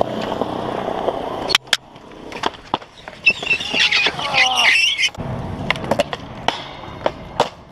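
Skateboard wheels rolling on concrete, broken by sharp clacks of the board striking the ground about a second and a half in and several more times later. A high wavering cry sounds in the middle, then the rolling picks up again.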